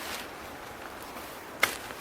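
A faint steady hiss with one sharp click about one and a half seconds in.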